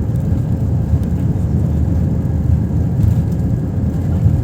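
Airbus A319 jet airliner taking off: a loud, steady low rumble of engines and airflow, with a faint steady whine above it.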